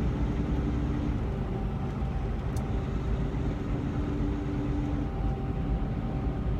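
Inside the cab of a semi-truck tractor driving bobtail with no trailer: steady engine and road rumble with a steady droning hum.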